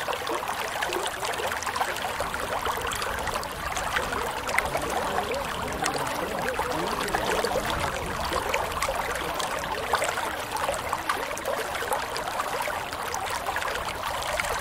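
Water running steadily in a small stream or channel, trickling and bubbling.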